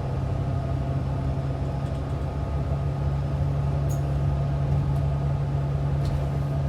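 Bus engine and drivetrain running steadily, heard from inside the passenger cabin as a steady low hum over road rumble.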